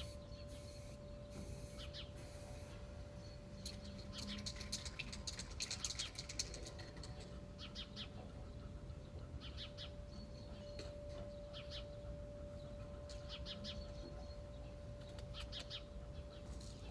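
Small birds chirping in short, high, rapid bursts, in several clusters, over a faint steady hum.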